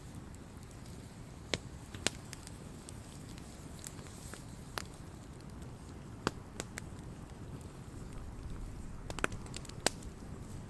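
Wood campfire burning, a steady low rustle broken by sharp, scattered crackles and pops every second or two.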